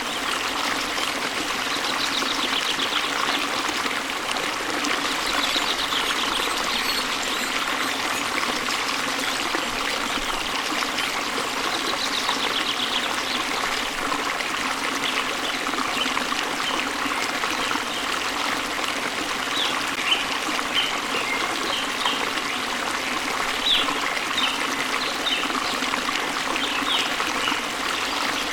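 Waterfall and stream water rushing and splashing steadily, with small birds chirping over it: a couple of short trills early on and frequent brief chirps in the second half.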